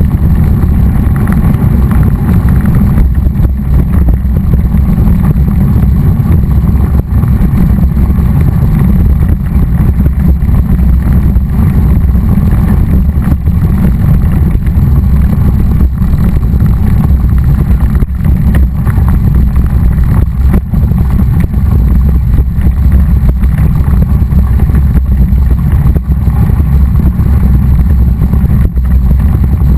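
Loud, steady low rumble of wind buffeting the microphone, as from a camera moving at speed, with no clear engine note.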